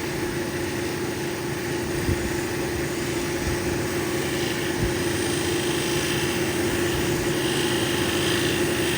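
Cabbing machine's motor running steadily with a constant hum, an opal held against its spinning 1200-grit wheel.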